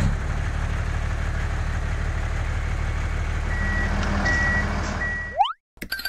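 Heavy tractor engine sound effect running steadily with a low pulsing note, with three short reversing beeps a little past the middle. Near the end a quick rising whistle sweeps up and the sound cuts off suddenly.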